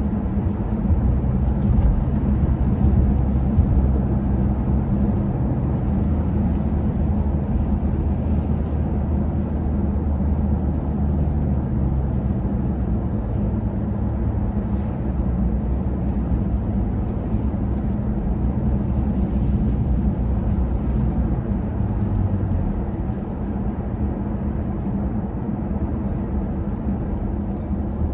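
Steady low rumble of city street ambience with a constant low hum running through it.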